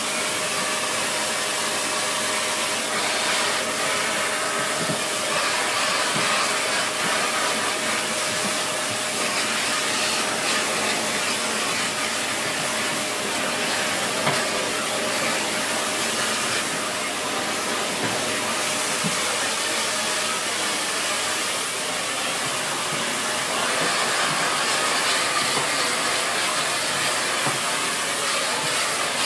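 Dyson Big Ball Animal (CY23) cylinder vacuum cleaner running steadily at full suction, a continuous rushing airflow with a faint steady motor whine.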